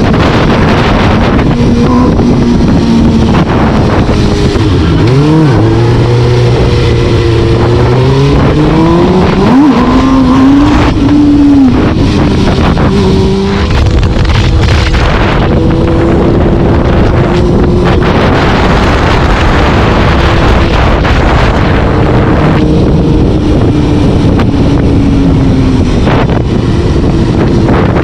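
A vehicle engine under way, its pitch climbing as it accelerates from about five seconds in until about twelve seconds, then running fairly steadily at cruising speed. A constant heavy rush of wind on the microphone runs underneath.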